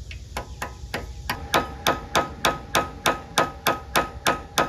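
Steady rhythm of sharp metallic knocks, about three to four a second, each ringing briefly, growing louder about a second in.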